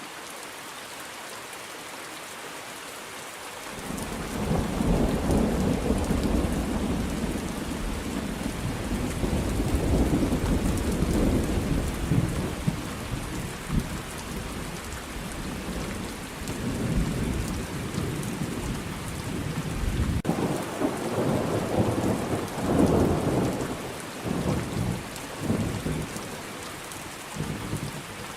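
Steady rain with rolling thunder. About four seconds in, a long low rumble starts and swells and ebbs in waves. It breaks off sharply about twenty seconds in, then rumbles again in several surges before dying away near the end, leaving only the rain.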